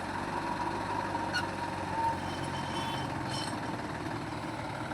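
Diesel engine of heavy farm or earthmoving machinery running steadily, with a couple of light clicks.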